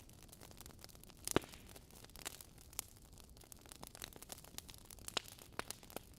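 Wood logs burning in a fireplace, crackling: irregular sharp pops and snaps over a faint hiss, the loudest pop about a second and a half in.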